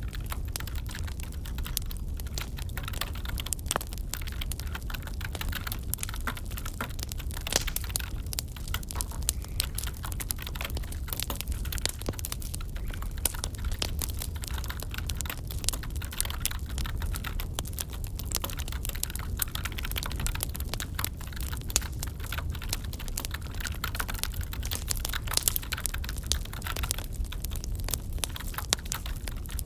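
Wood fire crackling, with irregular snaps and pops over a low steady rumble, and keyboard typing mixed in.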